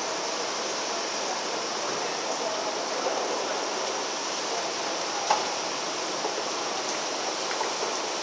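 Steady hiss of heavy rain falling, with a single sharp click about five seconds in.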